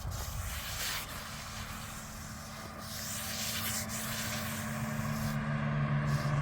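An engine running with a steady hum that grows louder and lower-pitched in the last second or two, over a background hiss.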